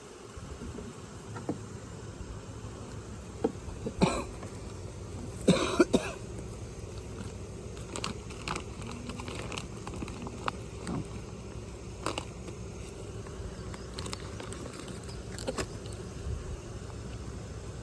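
Honeybees buzzing around an open hive over the steady low hum of a truck engine left idling, with a few sharp knocks and clicks from the wooden hive frames being handled, the loudest about four seconds in and again a second or two later.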